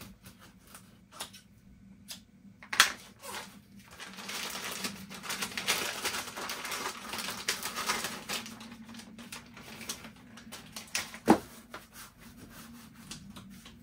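Hands working a small plastic part and double-sided sticky tape: scattered clicks and taps, a crackly rustling through the middle, and two sharper knocks, about three seconds in and near the end.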